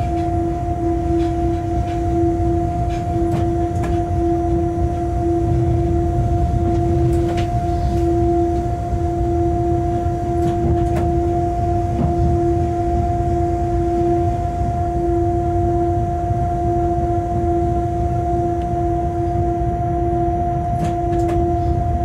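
Inside a freight locomotive's cab while the train runs: a steady two-note machine hum over the low rumble of the wheels rolling on the track, with a few faint clicks.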